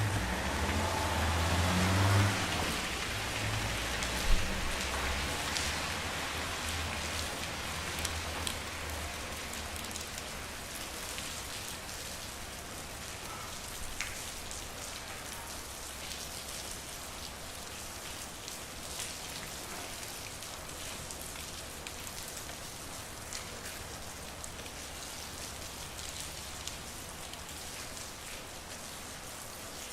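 Steady rain falling on a street, with many drops ticking sharply on nearby surfaces and one louder tick about four seconds in. A low rumble fades out over the first few seconds.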